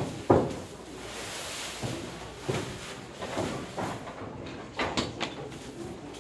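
A series of sharp knocks and thuds, the loudest about a third of a second in and a quick cluster near five seconds, over a low hiss.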